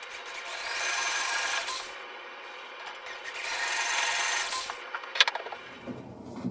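Two long abrasive strokes of a hand tool across wood, each about a second and a half, followed by a few sharp clicks.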